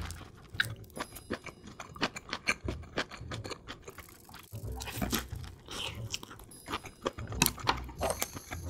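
Close-up chewing of gimbap (seaweed-wrapped rice rolls): a quick run of short crunches and clicks from the mouth as it is bitten and chewed, sped up to one and a half times normal speed.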